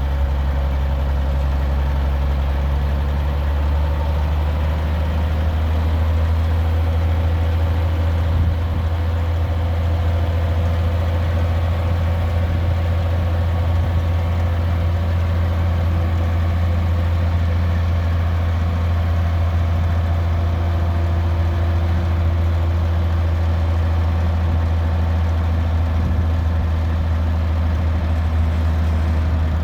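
GMC Brigadier grain truck's engine idling steadily with a low, even hum.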